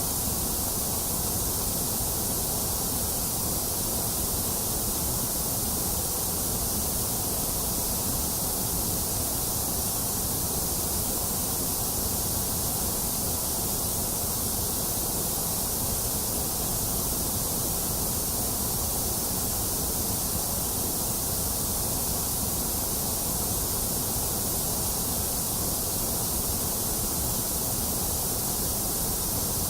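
Steady, unchanging white noise: an even hiss spread across the whole range, strongest in the highs, with no breaks or other sounds.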